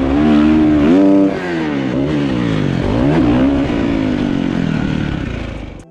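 Dirt bike engine revving, its pitch rising and falling several times as the throttle is opened and closed; it cuts off abruptly at the end.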